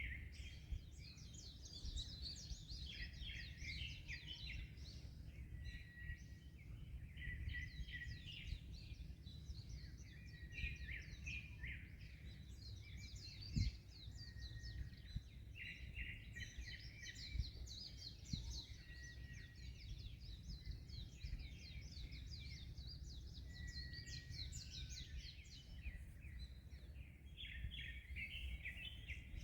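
Many small birds chirping and twittering at once, rapid overlapping calls with a few short whistled notes, over a steady low rumble of wind and surf. A single sharp knock sounds about halfway through.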